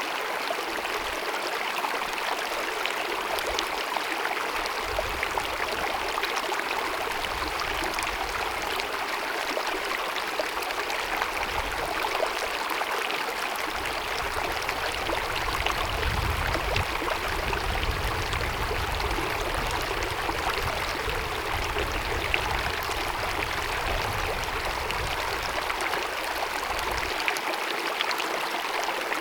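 Glacier-fed mountain meadow stream running and babbling over rocks, a steady, dense rush of water. A low rumble underneath swells and fades, strongest in the middle.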